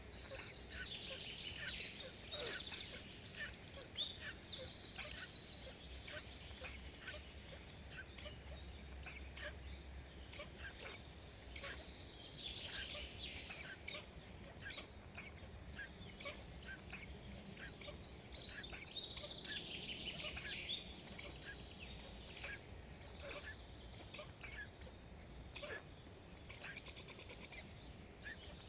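Birds chirping and calling with many quick high chirps. Two louder bouts of rapid trilled calls come in the first five seconds and again around eighteen to twenty-one seconds in.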